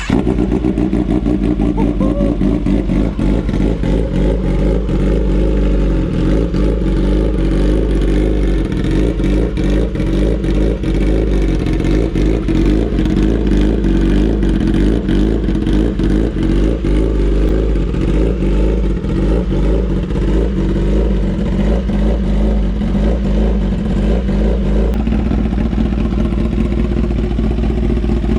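Kawasaki ZX-10R inline-four sport bike engine running through a titanium SC Project CR-T slip-on exhaust, just after starting up. The exhaust note stays loud and steady, changing its note about 25 seconds in.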